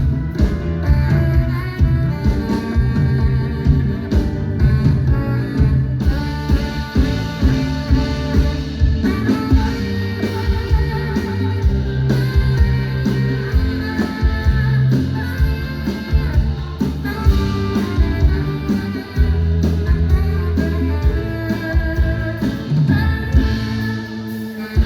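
Live band playing amplified music: a drum kit keeping a steady beat under bass and electric guitar.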